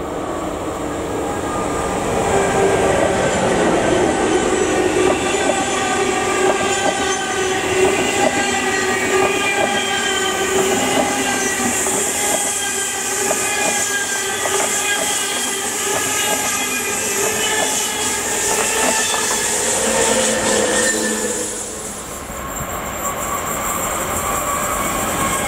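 An ICE high-speed train passing close by at speed: the wheels click over the rail joints under a whine of several tones that slides down in pitch as it goes by. Near the end, after a short dip, an electric locomotive hauling a freight train can be heard approaching.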